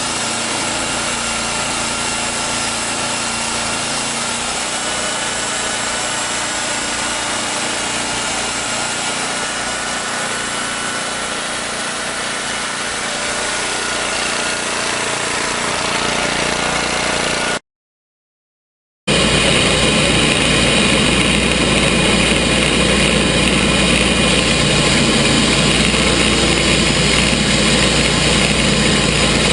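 Gasoline engine of a TimberKing portable sawmill running steadily. About two-thirds of the way through the sound cuts out completely for over a second, then comes back louder with a deeper rumble, the engine running at a steady idle.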